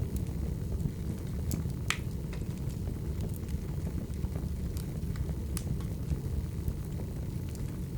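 Burning firewood crackling: a steady low rumble with scattered sharp pops, the loudest about two seconds in and again a little past the middle.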